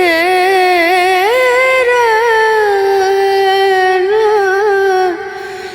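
A song with a single voice singing long, drawn-out notes with vibrato. The voice drops away about five seconds in.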